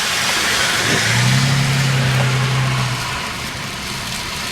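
Steady road noise inside a moving car on a snowy, icy road: a hiss from the tyres and engine. A low steady drone comes in about a second in and stops near three seconds.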